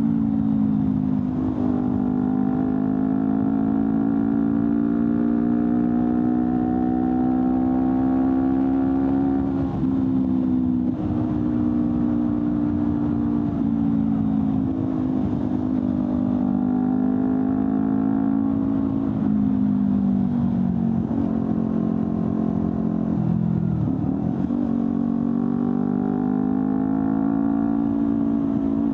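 Honda CBR250RR's 250 cc parallel-twin engine through an Akrapovic slip-on exhaust, running under way. Its pitch climbs slowly and drops back several times, about ten seconds in, near twenty seconds and again near twenty-four seconds, before rising once more.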